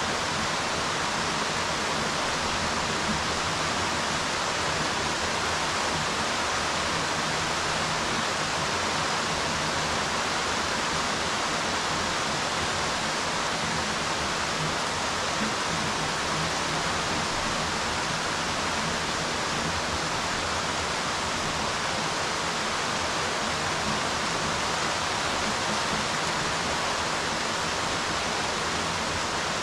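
Steady rain falling on the water of a swimming pool: a dense, even hiss of drops that holds level throughout.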